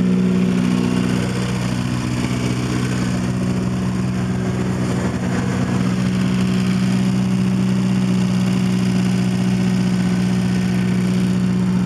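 1980 Porsche 924 Turbo's turbocharged 2.0-litre four-cylinder idling steadily through a straight-piped exhaust, running on its own at a cold start after sitting for months.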